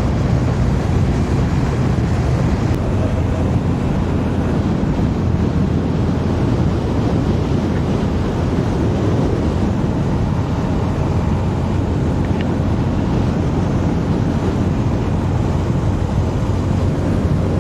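Steady wind noise buffeting the microphone of a motorcycle under way, with the bike's engine and road noise underneath.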